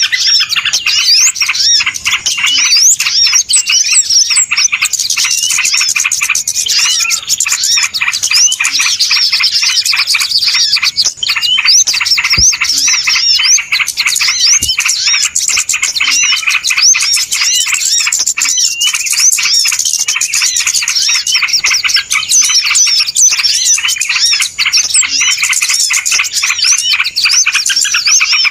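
A noisy flock of small birds chattering, with many rapid chirps and trills overlapping continuously: a bird-luring (pikat) call recording.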